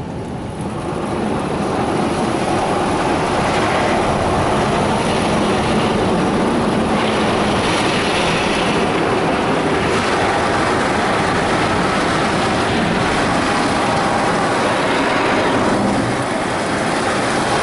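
Mark VII ChoiceWash XT car wash's spinning side brushes and water spray working over the car, heard from inside the car: a loud, steady rushing noise that swells over the first couple of seconds and eases slightly near the end.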